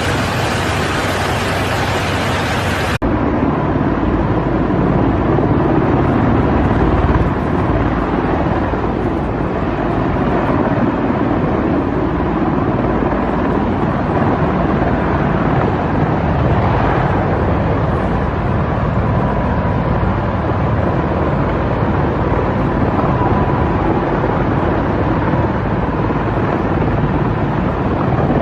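Loud, steady rushing noise of an aircraft's engines and airflow, with a faint steady whine; about three seconds in the sound cuts abruptly to a different recording of the same kind of noise.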